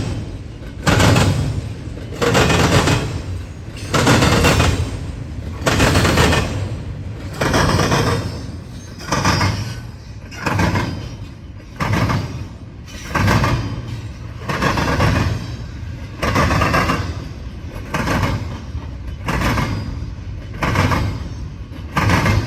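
Freight train wheels clattering over rail joints as an intermodal train rolls past, a heavy clack or double clack about once a second as each car's wheel sets go over, over a low rumble.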